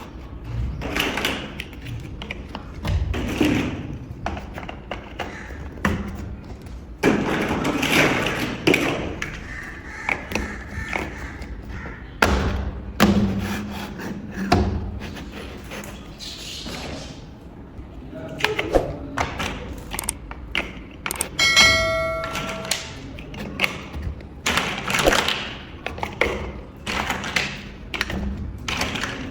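Plastic building bricks being handled and pressed together: an uneven run of clicks, taps and knocks, with one short ringing ping about three-quarters of the way through.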